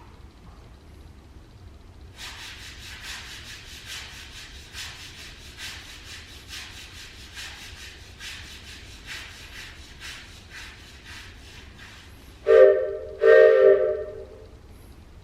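Steam locomotive chuffing in a steady rhythm, then two blasts of its chime whistle, a short one and a longer one, near the end.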